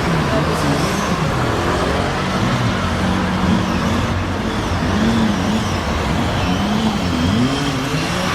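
Motorcycle engines running, their pitch rising and falling again and again as the throttle is opened and closed, over a constant roar of engine and road noise.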